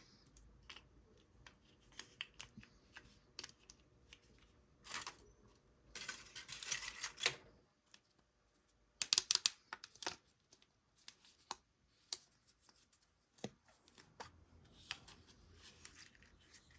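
Hands handling a surprise egg and its wrapping: scattered small clicks and taps, with crinkling or tearing about five seconds in and again around six to seven seconds in, and a quick burst of sharp clicks about nine seconds in.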